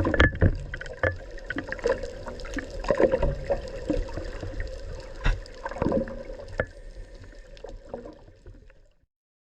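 Water sloshing and splashing around a boat, with irregular sharp knocks and clicks over a steady hum. The sound fades out near the end.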